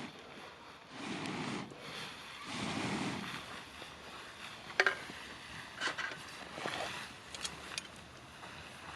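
Wood campfire burning, with a few sharp crackles and pops of the burning wood in the second half. Two gusts of wind rush over the fire and microphone in the first few seconds.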